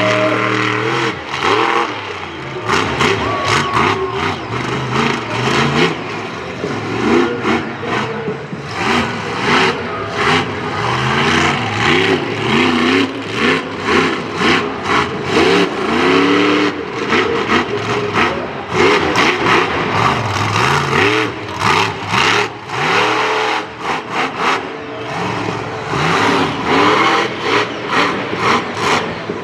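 Monster truck engine revving hard, the pitch climbing and falling again and again, with many sharp cracks and bangs along the way.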